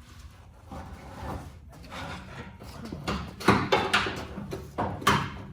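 Metal parts and tools clattering and knocking as they are handled, with a run of sharp clanks in the second half.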